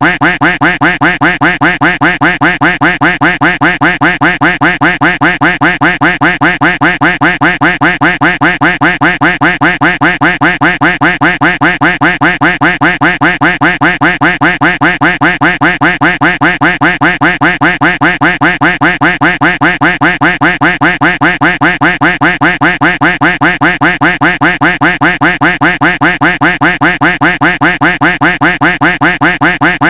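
Duck quack sound effect looped over and over, rapid evenly spaced quacks with no break.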